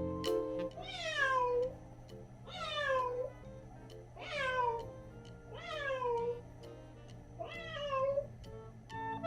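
A cat meowing five times, evenly spaced, each meow starting high and falling in pitch.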